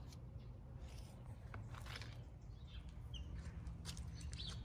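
Faint outdoor ambience: a steady low rumble with light rustles and clicks, and a few short, high bird chirps in the last couple of seconds.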